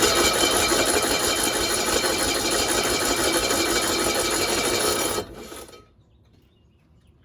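1965 Cushman Truckster's small single-cylinder engine running fast and even for about five seconds, then dying out and stalling. It will not keep running while its carburetor is still out of adjustment.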